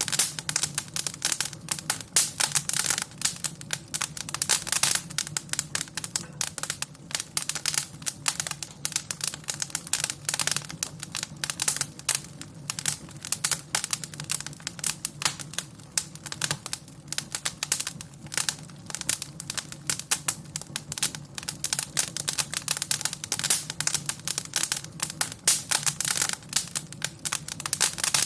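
Wood fire in a fireplace crackling: a dense, irregular stream of pops and snaps over a low steady rumble.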